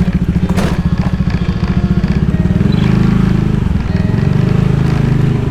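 Motorcycle engine running under way with an even, pulsing beat. There is a short burst of noise about half a second in, and the engine note smooths out and grows a little louder about halfway through as the bike picks up.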